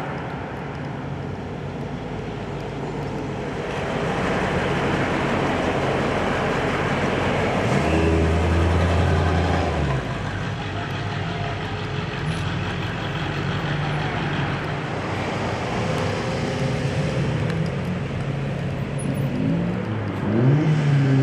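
Car engines running as vehicles drive past, with one engine revving up near the end.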